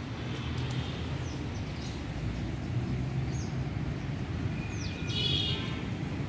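Birds chirping in short, high calls over a steady low rumble of distant traffic, with a louder, stacked call about five seconds in.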